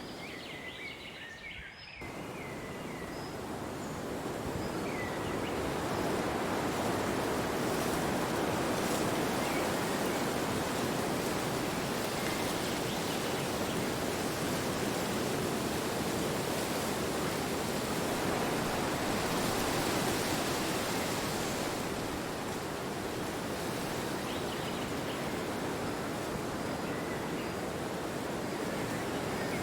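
Steady wind blowing, a dense rushing noise that swells over the first few seconds and then holds, with a few faint bird chirps near the start.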